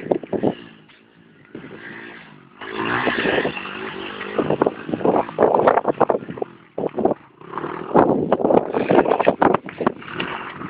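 Dirt bike engine revving up and easing off as it is ridden. It swells loud twice, about three seconds in and again near eight seconds, with rough crackly noise over it.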